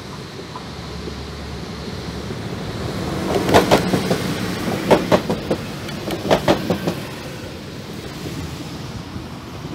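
Electric multiple unit passing close by, a rumble building as it nears, then three quick groups of sharp wheel clacks about a second and a half apart as its bogies cross the rails, fading away afterwards.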